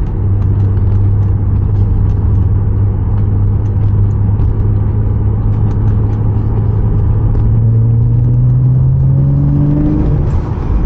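Porsche 987.2 Cayman S's 3.4-litre flat-six engine running under load at a steady pitch, then rising as the car accelerates and dropping sharply near the end at a gear change. Faint irregular clicks run over the engine sound.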